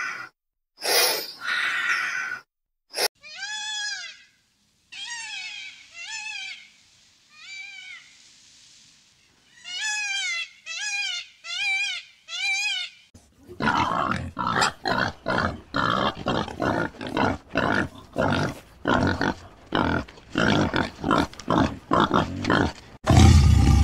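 A short breathy hiss, then a run of about a dozen short, arching peafowl calls. About halfway through, pigs start grunting in a rapid, unbroken string for the last ten seconds.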